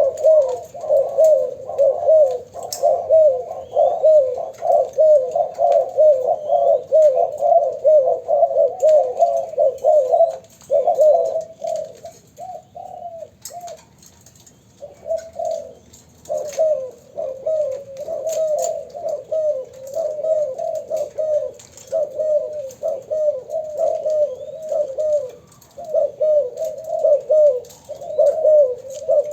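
Young doves cooing in fast, continuous runs of short notes, thinning out into a few scattered phrases for a few seconds near the middle before the runs resume.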